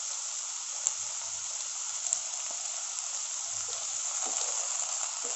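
Banana stem slices and onions sizzling in oil in a non-stick pan on low heat, stirred with a wooden spatula that knocks lightly against the pan twice, about one and two seconds in.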